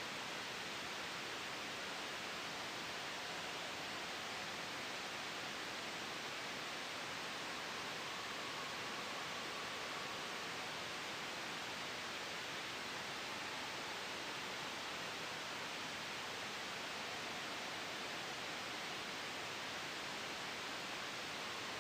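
Steady white noise blended with a soft wind sound, an even, unchanging hiss. A faint whistling tone comes up briefly in the middle.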